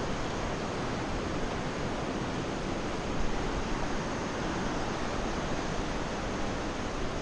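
Steady rushing of river rapids: an even, unbroken noise of fast-flowing water.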